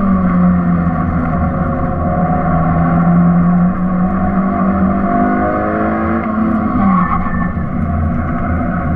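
Suzuki Swift's engine heard from inside the cabin, driven hard on a circuit lap. Its pitch drops sharply near the start, holds, climbs again, then drops sharply about seven seconds in, over steady road and wind noise.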